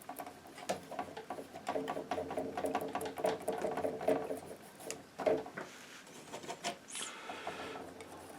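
Painting knife scraping and tapping as it works oil paint: a run of quick small clicks and scrapes, with a louder scrape about five seconds in.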